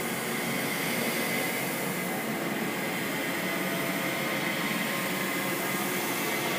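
A steady, noisy drone with faint held tones woven through it, an eerie ambient sound effect.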